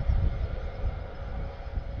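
Airbus A400M's four turboprop engines running steadily on the ground before the takeoff run, with a faint held tone over the drone. Wind buffets the microphone with a gusting low rumble that is the loudest part.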